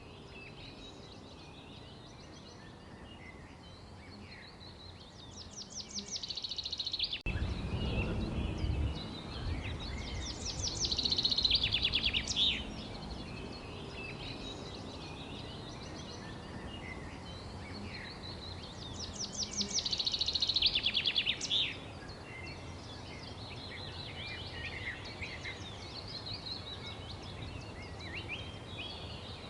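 Songbirds chirping and singing over a steady outdoor background. Three times a bird gives a loud, fast trill of rapidly repeated notes: about five, ten and nineteen seconds in.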